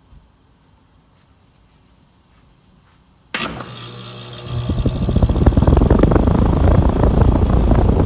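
American Standard 5-ton heat pump outdoor unit switching on: a sudden start with a steady low hum about a third of the way in, followed a second later by louder, steady running noise as the unit comes up to speed.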